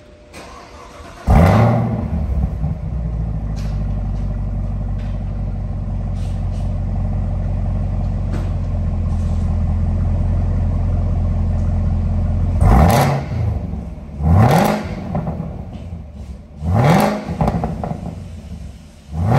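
Stock exhaust of a 2020 Camaro ZL1's supercharged 6.2-litre V8. The engine starts about a second in with a flare of revs and settles into a steady idle. In the last seven seconds it is blipped four times, each rev rising and falling quickly.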